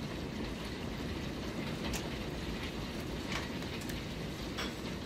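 Heavy rain pouring down in a thunderstorm: a steady rushing downpour with a few sharp taps of drops or hailstones striking hard surfaces.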